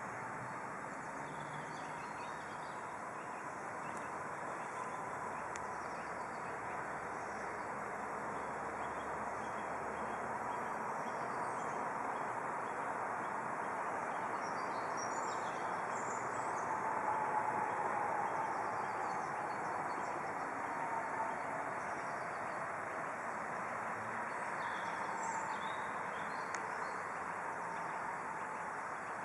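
Small birds chirping briefly a few times over a steady rushing background noise.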